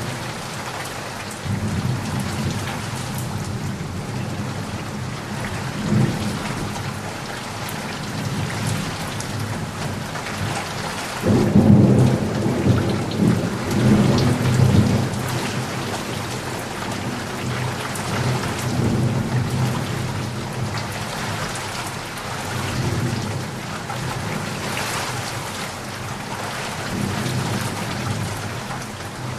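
Steady heavy rain with rolling thunder: a low rumble under the hiss of the rain that swells to its loudest around twelve to fifteen seconds in, then eases back.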